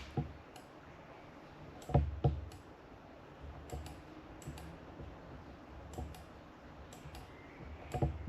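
Scattered clicks and light knocks of tools and small parts being handled on a workbench, with two louder knocks about two seconds in and near the end.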